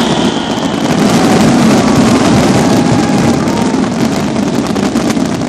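Fireworks going off in a dense barrage: a loud, continuous crackle and rumble of many overlapping bursts, with no single bang standing out.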